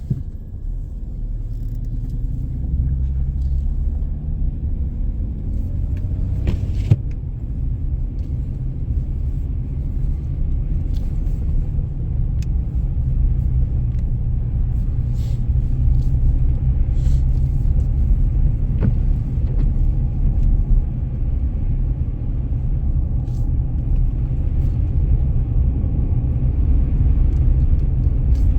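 Car driving on snowy roads: a steady low engine and road rumble that grows slightly louder, with a few short clicks or knocks, the clearest about seven seconds in.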